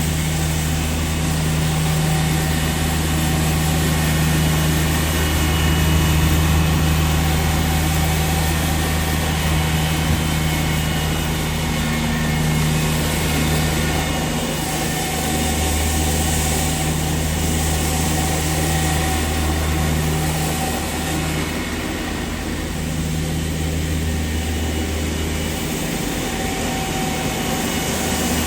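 Steady low engine hum, as of vehicles idling, with an even hiss over it.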